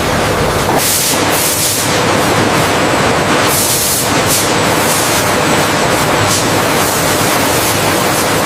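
Loud, steady rushing of water with repeated surges of spray hissing over it.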